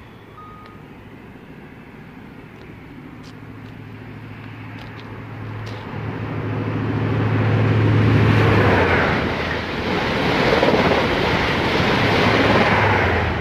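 GWR High Speed Train (InterCity 125) with Class 43 diesel power cars passing through at speed. A low steady engine drone builds from about four seconds in, then the rush of the train going by swells and stays loud through the second half.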